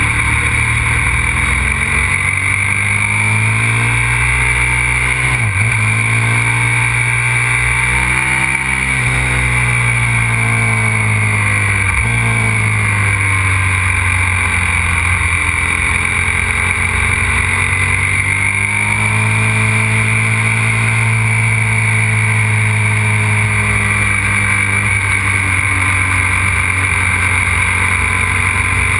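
Aprilia RXV 550 supermoto's V-twin engine running hard on track, its pitch rising and falling as it accelerates and slows, with brief sharp breaks in the note about five and twelve seconds in.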